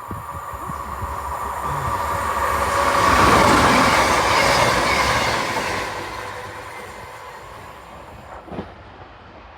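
CrossCountry Voyager diesel-electric multiple unit passing through, swelling to a peak about three to four seconds in and then fading away. A short knock sounds near the end.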